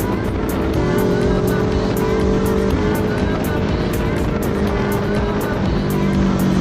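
Suzuki GSX150's single-cylinder engine running at steady revs through a loud exhaust, with music with a steady beat underneath.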